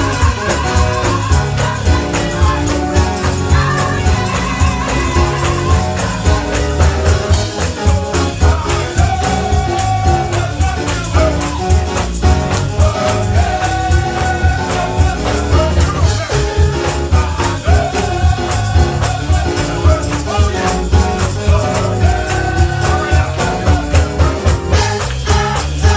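Gospel choir singing with band accompaniment: a steady beat with tambourine-like shaking and a heavy low end.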